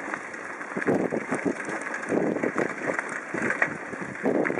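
Bicycle being ridden, rattling with irregular knocks, with wind buffeting the microphone.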